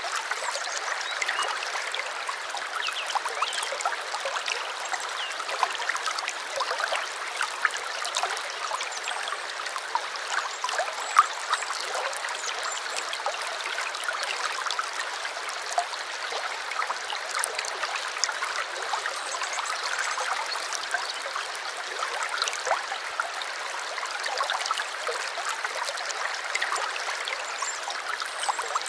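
Small stream of running water trickling and gurgling steadily, with many little splashes.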